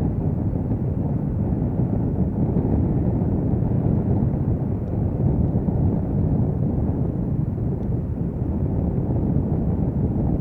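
Boeing 777 jet engines at takeoff thrust, a deep, steady rumble with no breaks.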